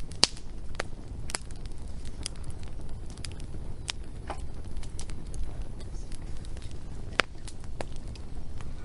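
Wood fire crackling: irregular sharp pops and snaps over a low steady rumble, the loudest pops near the start and about seven seconds in.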